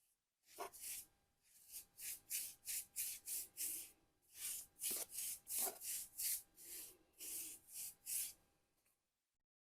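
Rhythmic rasping strokes of an abrasive worked by hand back and forth over a hard surface, about two to three a second, stopping shortly before the end.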